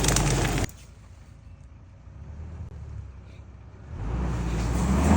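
Off-road vehicle engine and driving noise that cuts off abruptly under a second in, leaving a faint low rumble. The rumble grows steadily louder again over the last second or so.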